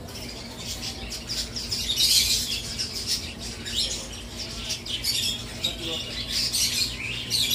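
Many caged small birds chirping and squawking at once, a dense, busy chatter that peaks about two seconds in, over a faint steady low hum.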